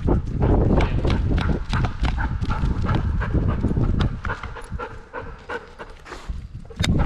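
A working dog panting hard amid a rapid patter of footsteps and thuds. It eases off for a couple of seconds past the middle, then picks up again just before the end.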